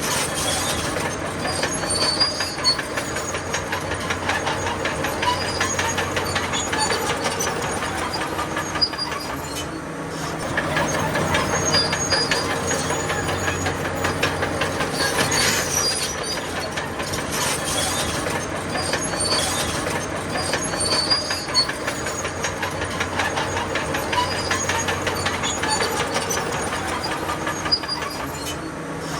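Crawler bulldozer at work: its diesel engine running steadily under load while the steel tracks clatter continuously, with short high-pitched squeals from the track links and rollers.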